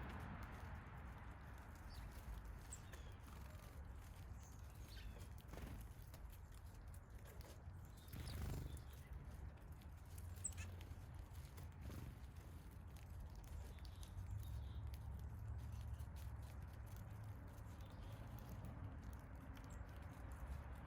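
Faint outdoor backyard ambience: a low steady rumble with a few faint, short bird chirps, and one brief louder rustle about eight seconds in.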